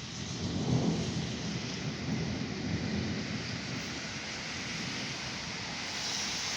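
Thunder rumbling during a thunderstorm: a low roll swells about half a second in, peaks near one second and rolls on for several seconds, over the steady hiss of rain.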